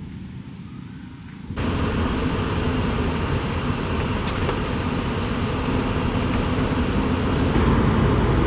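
Road and engine noise of a moving vehicle heard from inside it, a steady low hum under loud road noise. It cuts in abruptly about a second and a half in, after a quieter low rumble.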